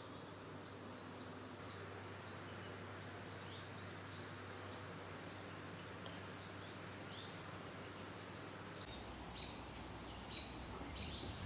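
Wild songbirds chirping and calling again and again, short quick notes over a steady outdoor background hiss.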